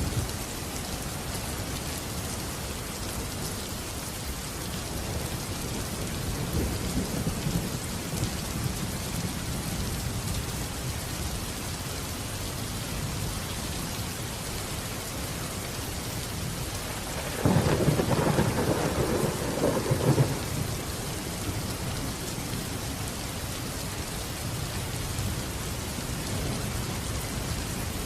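Steady heavy rain with thunder: a low rolling rumble about a quarter of the way in, and a louder, sharper thunderclap rumbling for about three seconds past the middle.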